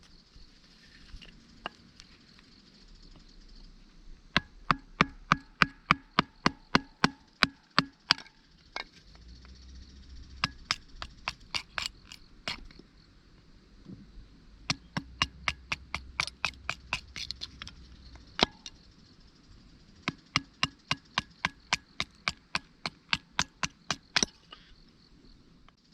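Hand axe chopping wood, in four runs of quick, even strikes, about three a second, with short pauses between them.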